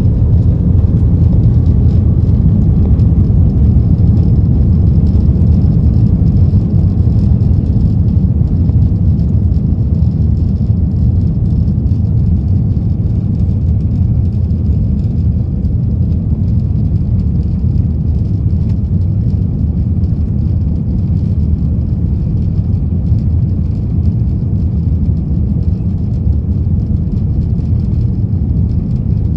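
Steady low rumble of a vehicle in motion, even and unbroken, with a faint thin high tone above it.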